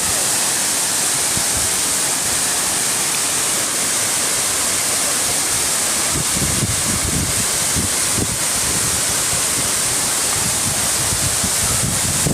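Waterfall: a steady, loud rush of falling water. From about halfway through, wind buffets the microphone in low gusts.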